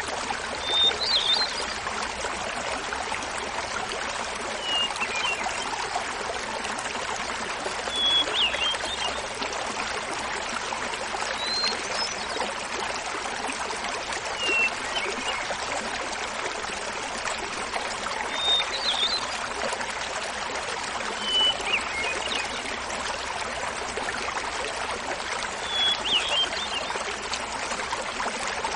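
Hermit thrush singing short flute-like phrases about every three to four seconds, each at a different pitch, over the steady rush of a small mountain waterfall.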